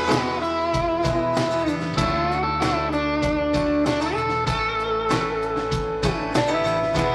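Live band playing a song's instrumental intro: an electric guitar lead with bent, sliding notes over a steady bass and drum beat.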